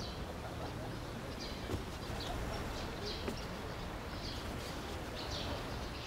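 Faint bird chirps, short and scattered about a second apart, over a steady low background hum.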